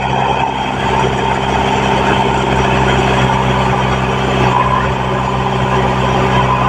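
Diesel engines of a JCB 3DX backhoe loader and Swaraj tractors running steadily at an even speed.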